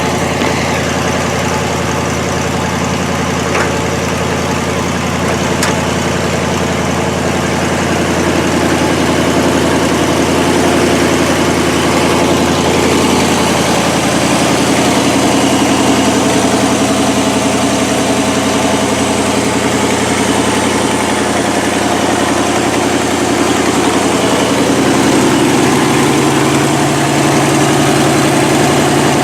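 1969 Buick Skylark's two-barrel Buick 350 V8 idling steadily after a cold start, the idle shifting slightly about halfway through and again near the end. The owner points to an exhaust leak at the passenger-side exhaust manifold.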